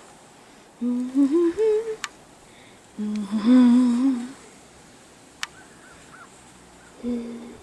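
A person humming a tune in short phrases that climb note by note and then hold a low note with a slight wobble, with pauses between them. A single sharp click sounds about five and a half seconds in.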